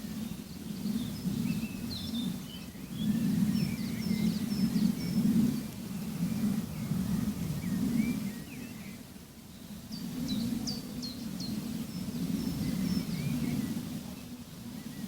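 Small birds chirping and twittering in short high calls, thickest about a second to three seconds in and around ten to eleven seconds in, over a low rumbling noise that swells and fades every second or two.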